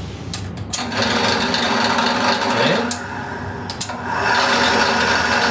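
An electrical part of a classic AJS motorcycle's newly wired system buzzing as it is powered up, sounding twice for about two seconds each.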